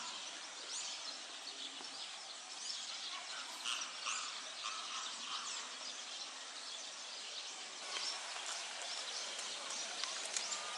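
Steady outdoor background noise with many short, high bird chirps scattered through it.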